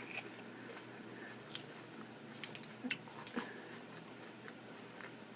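Faint chewing with a few soft, short mouth clicks of a person eating, over a low steady hum.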